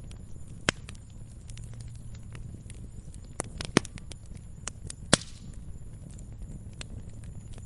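Wood fire burning in a fireplace: irregular sharp crackles and pops over a low steady rumble, with a few louder pops, the loudest about five seconds in.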